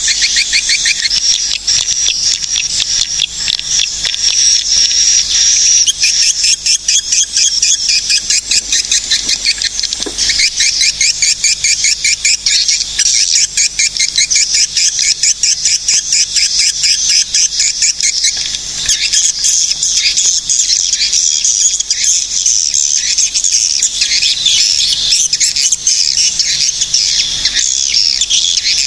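A dense, continuous chorus of swiftlets calling: many rapid, high-pitched chirps and twittering trills overlapping without a break.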